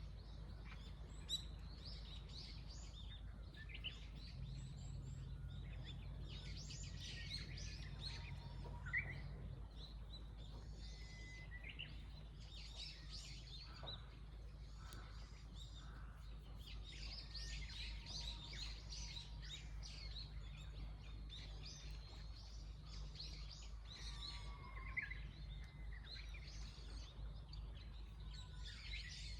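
Several small birds chirping and twittering on and off, over a steady low hum. A few sharp ticks stand out, about a second in, near nine seconds and near twenty-five seconds.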